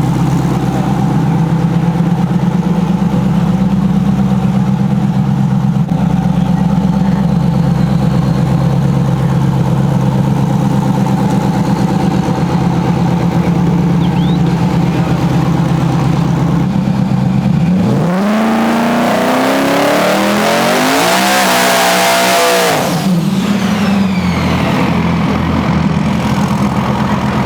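Drag-racing pickup truck engine idling steadily, then revved hard for about five seconds starting about 18 seconds in. The pitch climbs steeply under a loud hissing rush, then drops back to idle.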